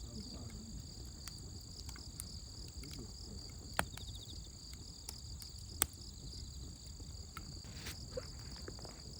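Insects chirping in two steady, high, continuous tones over a campfire. The fire crackles with scattered sharp pops, two of them louder, about four and six seconds in.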